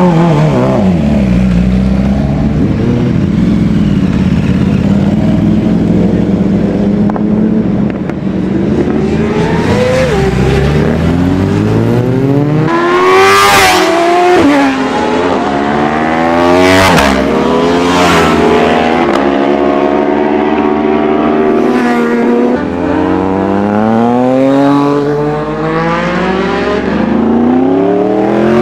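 Superbike engines running at low revs, then revving hard and accelerating away from about nine seconds in. The pitch climbs again and again and drops sharply at each upshift, with more than one engine at times.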